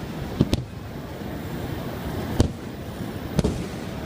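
Aerial firework shells bursting: four sharp bangs, two close together near the start, one about halfway and one near the end, over a continuous low rumble of the display.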